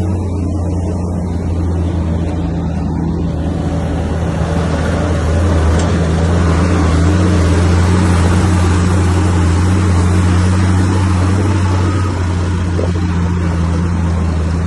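Heavy diesel engine of a Komatsu bulldozer running steadily under load, a deep drone that grows a little louder in the middle.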